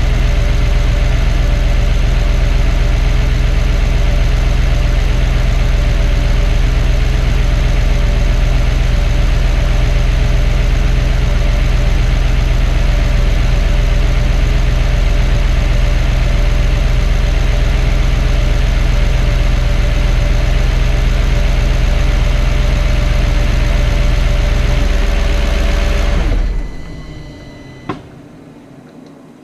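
Audi 4.2 V8 idling steadily after a fresh oil change while it is checked for leaks, then switched off about 26 seconds in, followed by a single click.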